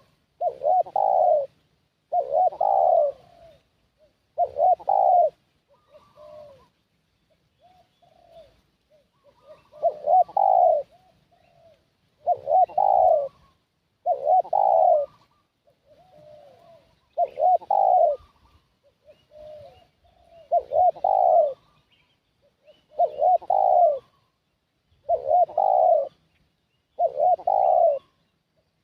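Spotted dove cooing: about eleven loud coo phrases, one every two to three seconds, with softer coos between them.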